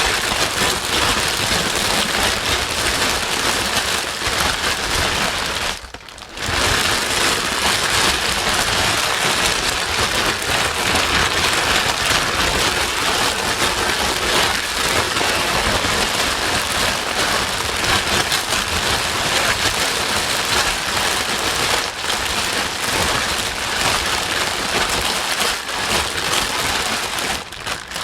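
Steady, rain-like white noise played to soothe a crying baby, an even hiss that briefly dips about six seconds in and again near the end.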